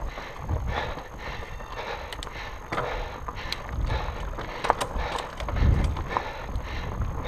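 Fat bike rolling over a rough, rocky trail: tyres crunching on rock and dirt while the chain and bike parts rattle with repeated sharp clicks and knocks. Low wind rumble buffets the microphone in surges.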